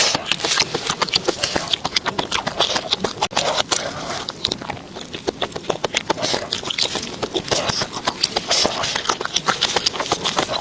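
A person chewing crunchy food close to the microphone: a dense, irregular run of sharp crackles and crunches throughout.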